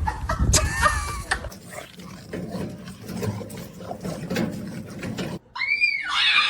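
A dog's noises at close range. After a sudden cut near the end, a high, rising-and-falling whine begins.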